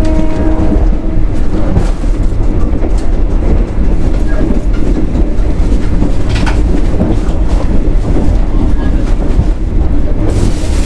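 CNR sleeper train running on the rails, heard inside the carriage: a steady rumble of wheels and track, with one brief sharp click about six and a half seconds in.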